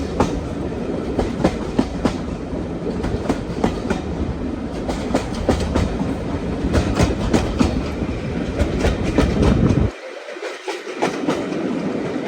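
Train running on jointed track, its wheels clicking over the rail joints over a heavy rumble. The rumble drops away abruptly about ten seconds in, leaving fainter clicks.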